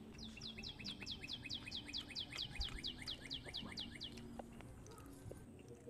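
A bird calling in a rapid trill of about twenty quick, high notes, each sliding down in pitch, at about five a second. The trill lasts about four seconds and then stops.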